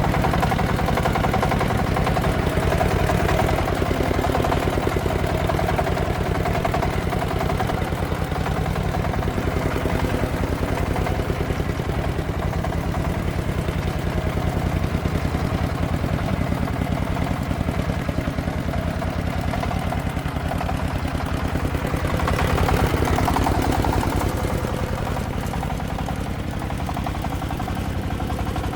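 Single-cylinder diesel engine of a công nông agricultural vehicle running steadily, swelling briefly a little over twenty seconds in.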